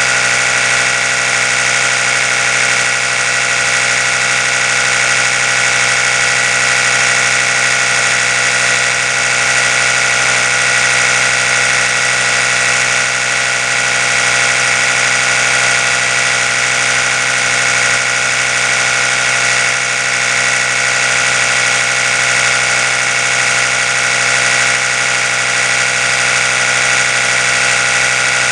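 Oral-B electric toothbrush running continuously: a steady, unchanging buzz.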